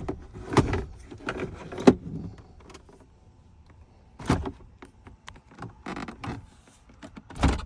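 Irregular plastic clicks and knocks as an instrument cluster is worked loose and unplugged from a Ford F250's dashboard, with a sharper knock about two seconds in and another near the end.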